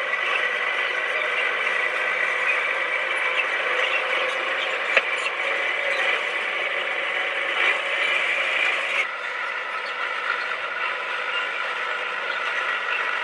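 Komatsu D20P crawler bulldozer running, a steady engine drone with mechanical clattering over it. A single sharp knock comes about five seconds in, and the sound drops a little about nine seconds in.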